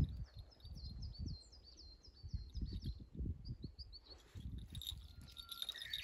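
A songbird singing a long run of quick, repeated high notes, about five a second, breaking off for a moment and starting again near the end, with a short rising whistle just before it resumes. Low rustling and soft thumps run underneath.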